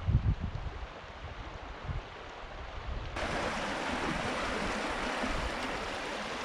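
Low wind rumble on the microphone, then about three seconds in a sudden switch to the steady rushing hiss of a river's flowing water.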